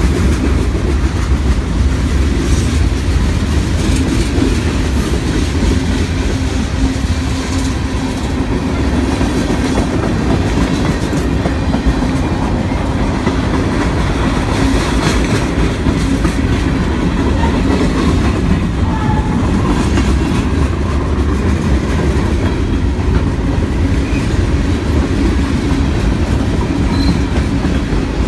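Freight cars of a mixed freight train rolling past at steady speed: a continuous loud rumble with wheels clicking over the rail joints.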